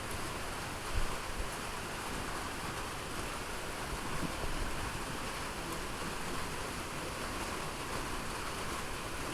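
Steady hiss of rain falling, with a brief low thump about a second in.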